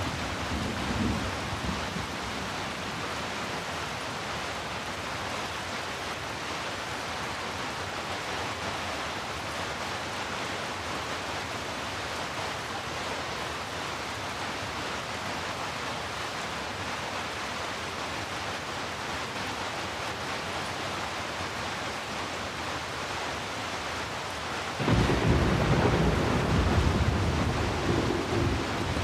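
Steady rain, an even hiss. A low rumble of thunder fades out in the first second or two. Near the end a louder rumble of thunder comes in suddenly, lasts a few seconds and dies away.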